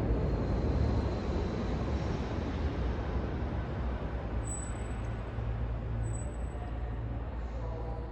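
Casablanca Spirit of Saturn ceiling fan running: a steady low motor hum under a rush of air from the blades, slowly growing quieter.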